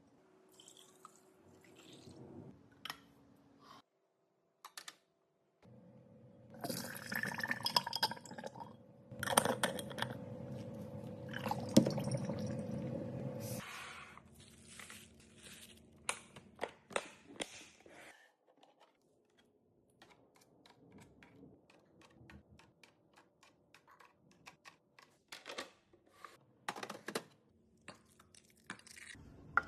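Containers and packaging being handled while restocking a fridge: scattered clicks and taps, with a louder, denser stretch of handling noise between about 6 and 14 seconds in.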